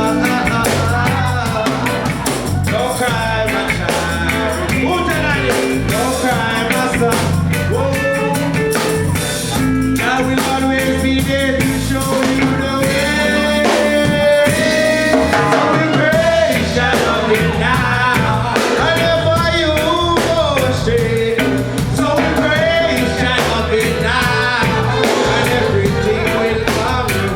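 Live reggae band music with a steady beat and a melody line over it.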